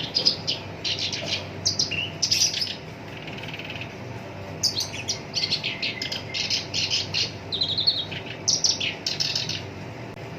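Black-browed reed warbler singing: rapid runs of rough, scratchy chattering notes, in two bouts with a pause of about two seconds between them.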